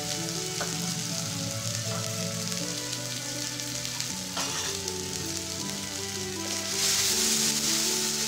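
Spice paste of ginger, green chilli, turmeric and chilli and cumin powders sizzling in hot oil in an iron kadai. The sizzle grows louder near the end as a wooden spatula stirs the paste.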